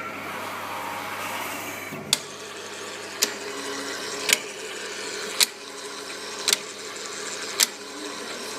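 Powder feeder of a ZPrinter 850 3D printer running with a steady mechanical hum and a sharp click about once a second, the feeder noise reported as a fault.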